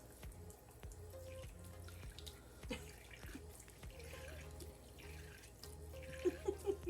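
Water running from a faucet into a sink.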